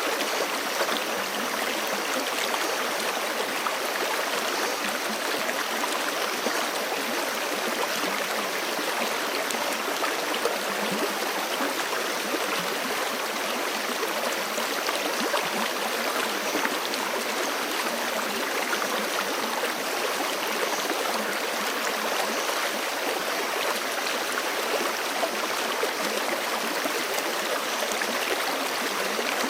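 Forest creek flowing steadily, water rushing and burbling over rocks in an even, unbroken wash of sound.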